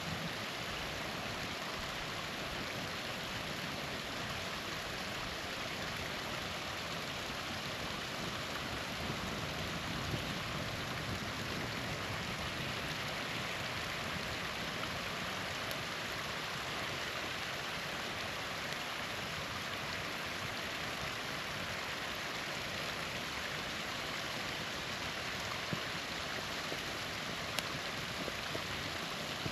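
Small waterfall rushing steadily, with a few faint pops from the campfire crackling.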